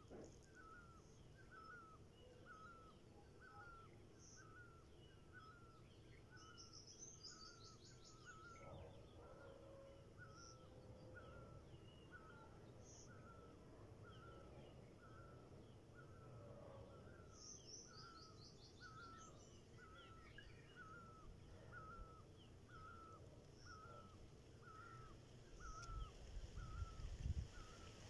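Faint outdoor ambience: a bird repeats a short call steadily, about three times every two seconds, and twice a brief high descending trill from another bird comes in. A few low thumps near the end.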